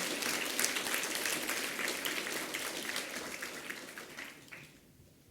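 An assembly hall full of schoolchildren applauding: dense clapping that thins out and dies away over the last second or so, leaving a few scattered claps.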